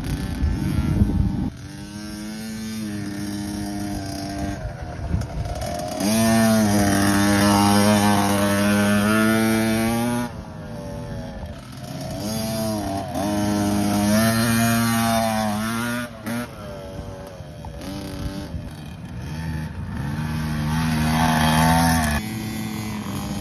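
KTM kids' motocross bike engines revving, the pitch climbing and dropping back several times as the bikes accelerate and shift around the track.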